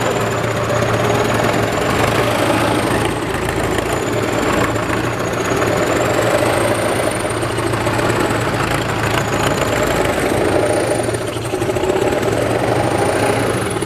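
Sonalika DI 750 tractor's diesel engine running steadily with a knocking rumble, on a tractor that has broken down with a technical fault. A faint thin high whistle wavers slowly up and down in pitch above it.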